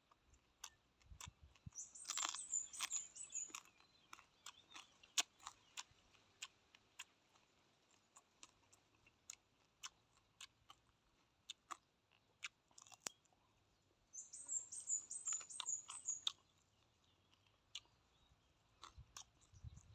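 Close-miked chewing of seafood salad, with wet mouth clicks and crunching. Two louder, busier stretches come about two seconds in and about fourteen seconds in.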